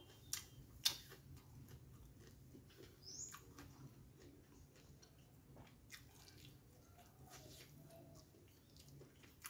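Faint mouth clicks and lip smacks of someone chewing martabak with mouth closed, with two sharper clicks in the first second. A short high chirp sounds about three seconds in.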